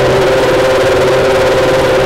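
Jaguar XJR-14's 3.5-litre V8 racing engine running at a steady idle, with a constant hum and no change in revs.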